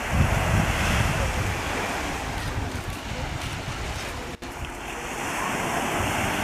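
Sea waves washing, with wind buffeting the microphone, strongest near the start. The sound drops out very briefly about four seconds in.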